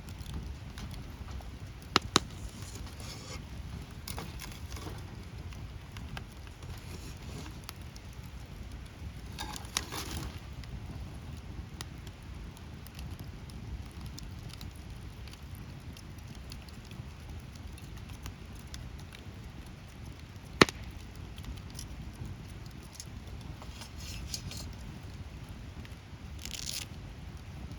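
Wood campfire burning, with scattered crackles and sharp pops over a steady low rumble. A pair of pops comes about two seconds in, and the loudest snap about twenty seconds in.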